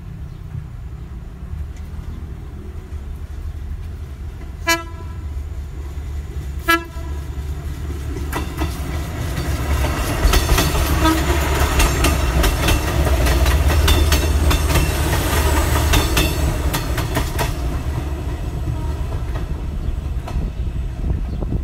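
Philippine National Railways commuter train sounding two short horn blasts a couple of seconds apart, then passing close by with a loud rumble and rapid clacking of wheels over rail joints that swells and eases off as it moves away.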